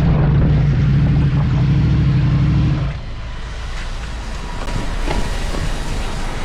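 Motorcycle engine running at a steady speed under wind and road noise. About three seconds in the engine note drops away, leaving mostly wind and road rush.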